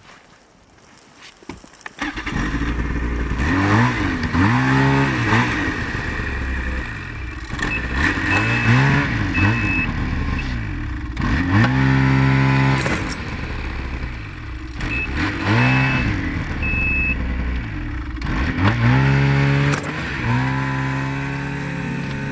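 Snowmobile engine cutting in abruptly about two seconds in, then revving up and easing back again and again, its pitch sweeping up and settling every few seconds.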